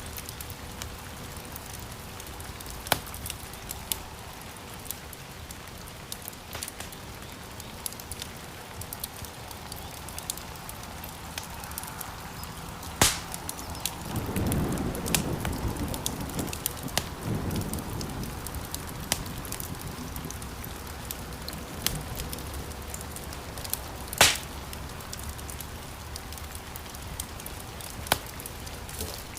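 Wood fire burning in a stone fireplace: a steady hiss with scattered sharp crackles and pops, two of them louder, about 13 and 24 seconds in. A few seconds of louder low rushing come around the middle.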